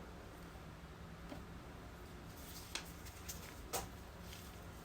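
Quiet handling sounds of skinning an otter by hand: faint rubbing with a few soft clicks, two of them a little louder near the middle, over a low steady hum.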